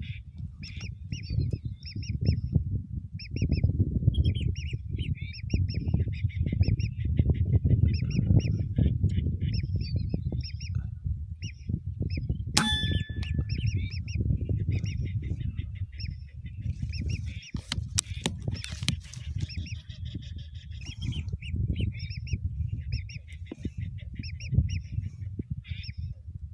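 A flock of whistling ducks calling: many short, high whistled calls repeating throughout, over heavy wind buffeting the microphone. One sharp click about twelve and a half seconds in.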